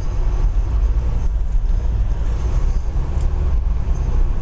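Car heard from inside the cabin: a steady low engine and road rumble.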